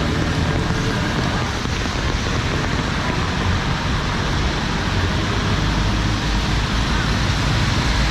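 Traffic on a rain-wet city street: engines rumbling under a steady hiss of rain and tyres on wet road.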